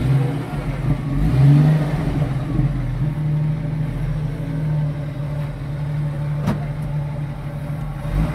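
Jeep Wrangler YJ engine running at low revs as the Jeep creeps forward. Its note rises briefly about a second and a half in, then holds steady. There is a single sharp click near the end.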